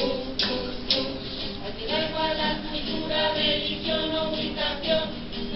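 A group of voices singing a Spanish Christmas carol (villancico), with a few sharp percussion strikes in the first second.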